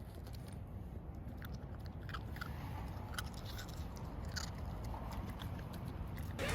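A puppy chewing: faint, irregular little crunches and clicks.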